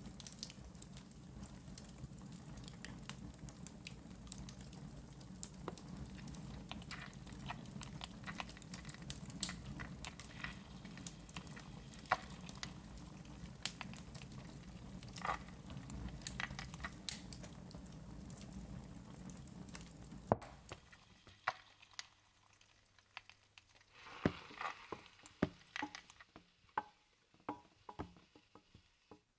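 Wood fire crackling: a steady low rumble dotted with sharp pops and snaps, which cuts off abruptly about two-thirds of the way in. After it, a quieter stretch of scattered light taps and clicks.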